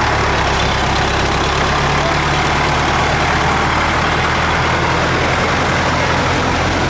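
Tractor engine running at a steady speed, an even low drone that neither rises nor falls.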